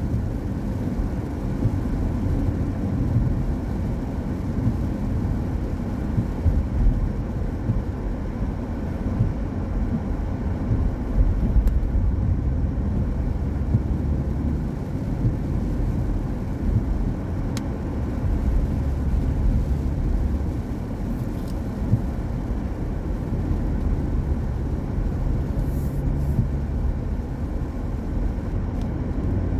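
Car driving on a rain-wet road: a steady low rumble of tyre and road noise, with a few faint ticks.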